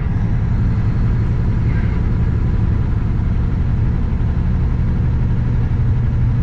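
Diesel engine of a Kenworth W900 semi truck running steadily, a loud, even low rumble with a strong deep hum.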